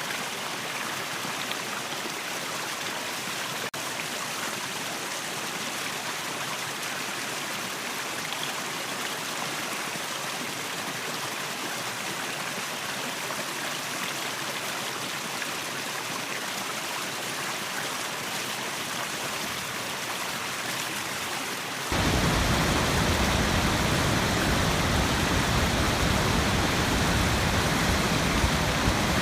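Waterfall: rushing water in a steady, even hiss. About 22 seconds in it abruptly becomes louder and deeper.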